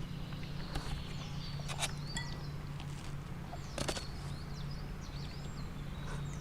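Small birds chirping and calling repeatedly over a steady low hum, with two short sharp clicks about two and four seconds in.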